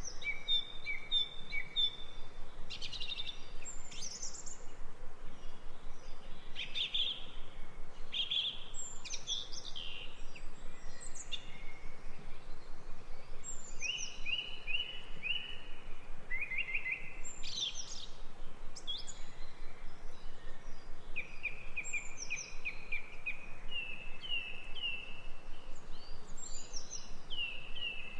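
Songbirds singing and calling: rapid series of repeated chirps and short rising and falling whistled notes, overlapping, over a steady faint hiss.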